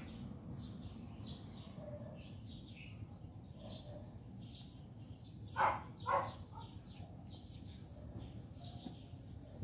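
Small birds chirping, many short high chirps scattered throughout, with two louder short calls about half a second apart midway, over a low steady background rumble.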